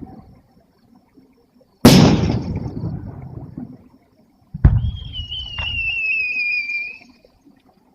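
Two aerial firework shells bursting with loud booms that echo away, about two and four and a half seconds in; the second is followed by a high wavering whistle that slowly falls in pitch for about two seconds.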